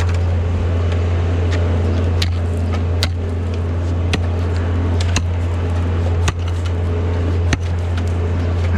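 A machine running with a steady low hum, with scattered light clicks and taps over it.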